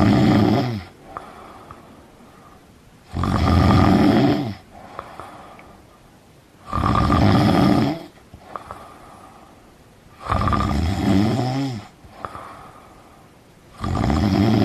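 A sleeping person snoring in a slow, regular rhythm: a loud snore about a second and a half long roughly every three and a half seconds, its pitch dropping as each one ends, with quieter breathing between.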